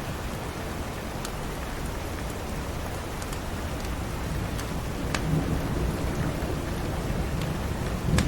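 Steady rain with a low thunder rumble building from about halfway through, and scattered sharp crackles from a wood fire in a fireplace.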